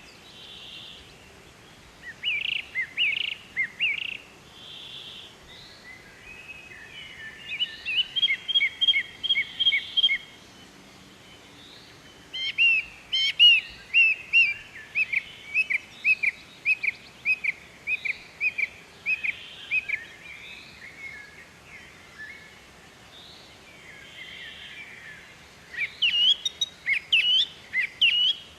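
Small birds chirping in bouts of short, quick notes, with the longest run of rapid chirps lasting several seconds in the middle and softer calls in between.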